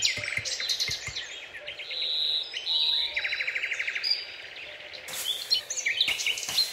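Songbirds chirping and calling, several overlapping, with fast trills of repeated notes and short whistles.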